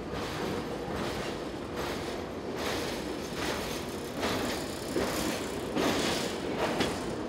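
Empty gondola cars at the tail of a freight train rolling past on steel rails, with irregular clanks and clatter from the wheels and couplers over a steady rolling rumble.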